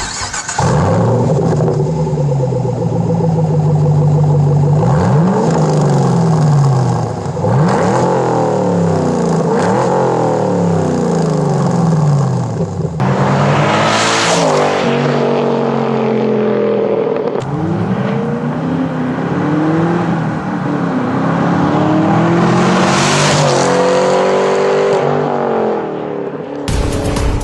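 Chevrolet Camaro SS 6.2-litre V8 with its mufflers deleted, exhausting through 4-inch slash-cut tips: idling and revved over and over, the engine note rising and falling with each blip. Two harder, louder revs come about halfway and near the end.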